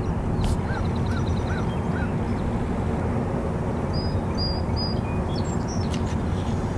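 Steady low rumble over open water, with a bird giving four short calls in quick succession near the start and three short high chirps about four seconds in.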